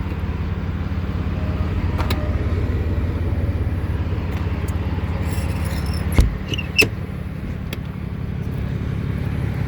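Steady idle of the Dodge 5500 service truck's diesel engine, with two sharp clunks a little after six seconds in, about half a second apart.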